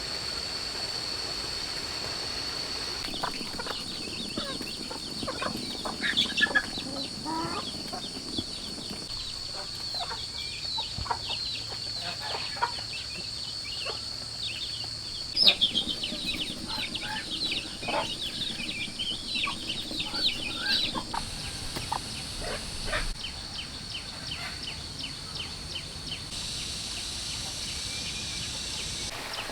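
Chickens clucking and calling in short irregular bursts over a steady high-pitched whine.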